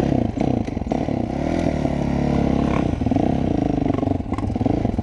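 Dirt bike engine revving up and down as the bike rides off, its pitch rising and falling with throttle and gear changes.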